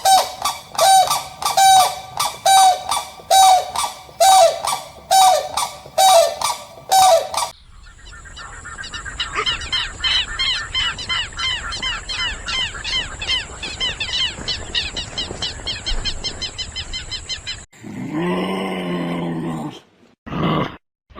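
A series of animal calls edited together: about a dozen loud honking calls in quick succession, then a fast run of high chirps over a steady high hiss, and near the end a deep, drawn-out call.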